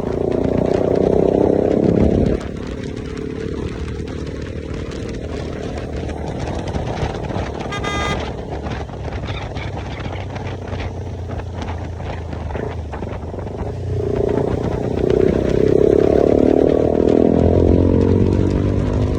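KTM motorcycle with a newly fitted aftermarket exhaust, accelerating hard for about two seconds, then easing off and cruising steadily before pulling hard again near the end.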